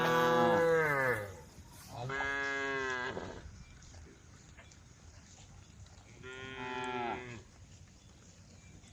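Cows mooing: three drawn-out calls. The first is the loudest and falls in pitch, the second comes about two seconds in, and a quieter third comes near the end.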